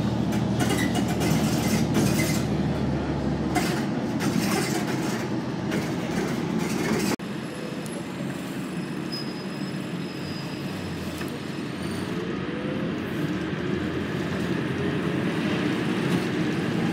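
Pan Am Railways train rolling past on the rails, with rapid clicking from the wheels and a faint squeal. The sound drops abruptly to a quieter, steadier rumble about seven seconds in.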